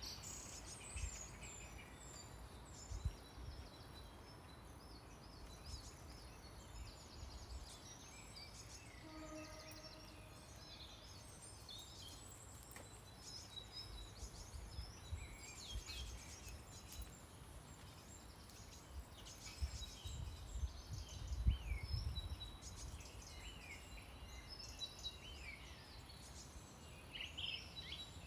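Several small birds chirping and singing at once in short, overlapping calls, over a low rumble with a few thumps about two-thirds of the way through.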